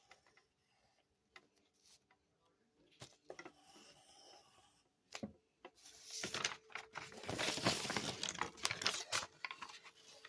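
Paper and drawing tools being handled: scattered light taps and clicks, then about six seconds in a dense stretch of scratchy rubbing and rustling on paper that lasts about three seconds.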